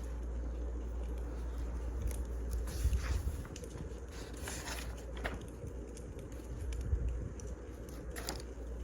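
Wood fire burning, with a few irregular crackles and pops over a steady low rumble.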